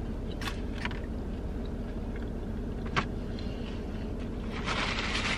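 A person chewing food, with a few small mouth clicks, over a steady low hum inside a car cabin. A paper rustle starts near the end.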